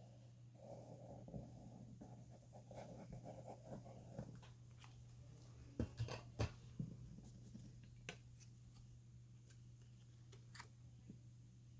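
Faint rustling of paper and fabric being handled, then a few sharp light taps about six seconds in and a couple more later, over a low steady hum.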